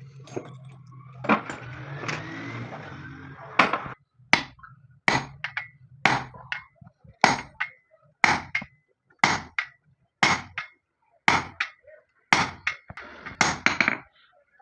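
A low steady hum with some scraping, then a hammer striking repeatedly, about one blow a second, with a short ring after each blow.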